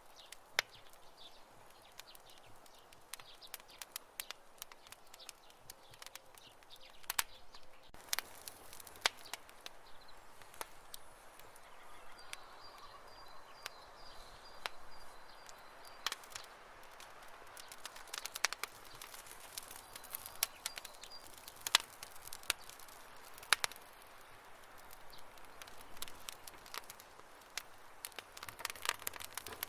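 Wood campfire crackling: sharp, irregular pops and snaps over a soft steady hiss. A faint thin high tone sounds for a few seconds in the middle.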